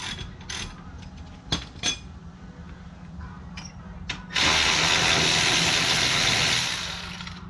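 A few clicks of a tool on a bolt, then about four seconds in an impact wrench runs for about three seconds with a loud, steady rush of noise, spinning a brake caliper bolt loose.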